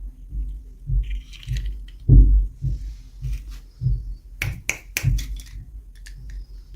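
Hands handling and opening toy packaging on a table: a string of irregular low thuds with sharp clicks and light crinkles, a cluster of clicks about two-thirds of the way through.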